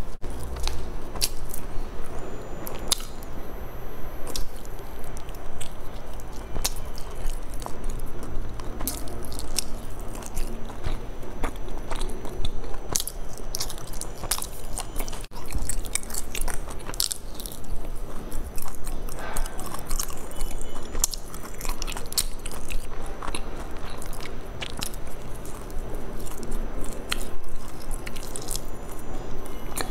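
Close-miked chewing and biting, with many short wet mouth clicks and occasional crunches, going on without a break.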